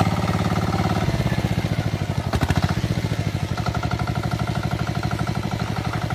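Tractor engine running steadily; its note drops about a second in and shifts again a little after three seconds, with a brief clatter about two and a half seconds in.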